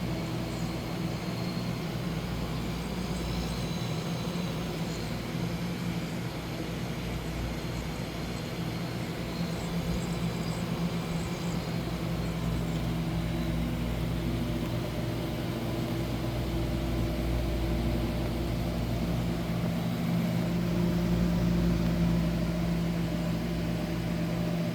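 Commercial beverage refrigerator's refrigeration unit running: a steady low hum that grows a little louder after about halfway.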